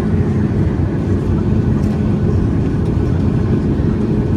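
A running vehicle's steady, loud low rumble, with an even hum underneath.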